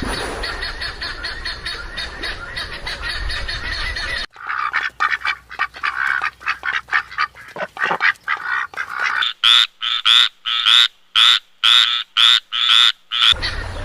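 A run of animal calls: rapid short calls, then about nine loud calls at roughly two a second that stop abruptly near the end.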